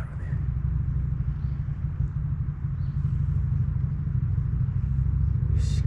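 A steady low rumble, with a brief rustle near the end.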